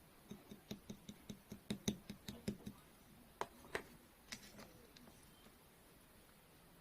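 Clear slime being pressed and worked by hand, giving a quick run of small popping clicks for a couple of seconds, then a few more spaced-out pops.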